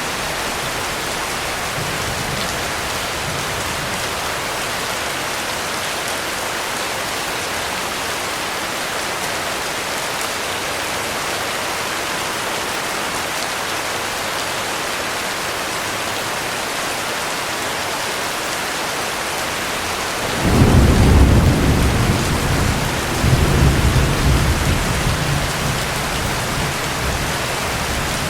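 Heavy rain falling steadily, with a roll of thunder breaking in about two-thirds of the way through: a sudden low rumble, a second swell a couple of seconds later, then fading back under the rain.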